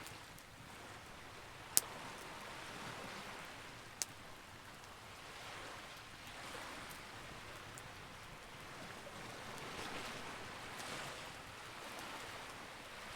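Campfire crackling: a steady hiss of burning wood with two sharp pops, the louder about two seconds in and a fainter one about two seconds later.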